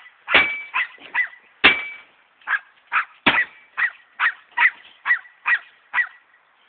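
A dog barking in a rapid run of short, high-pitched yaps, about two to three a second. A few heavier knocks are mixed in among them.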